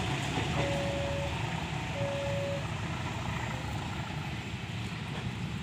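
Passenger train moving slowly away along the track, its low rumble gradually fading. Over it, a steady electronic beep sounds twice, each under a second long and about a second and a half apart, then stops.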